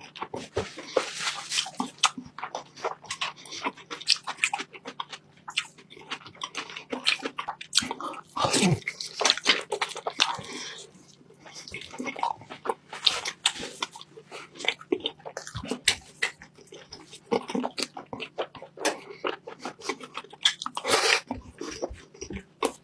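Close-miked eating of beef and pork calderita stew: wet chewing, lip-smacking and slurping in a quick, irregular run of smacks and clicks.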